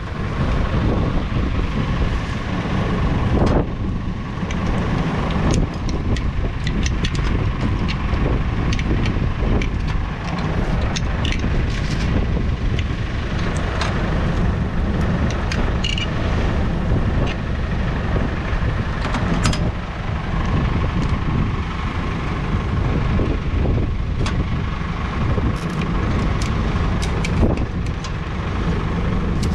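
A vehicle driving through a blizzard: a steady low engine and road rumble mixed with wind noise, with scattered small clicks and knocks throughout.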